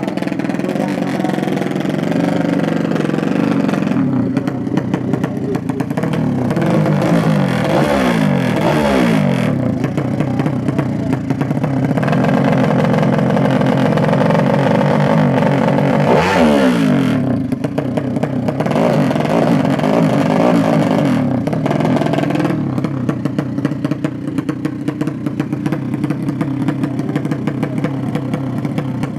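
Racing motorcycle engines revving loudly and repeatedly, the pitch climbing and falling again and again. About sixteen seconds in, one engine's pitch drops sharply and climbs straight back.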